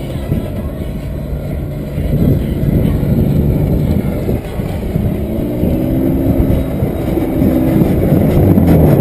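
Car engine of a red BMW 5 Series (E34) sedan revving hard while drifting. Its pitch climbs in repeated rises, and it grows louder toward the end over a heavy low rumble.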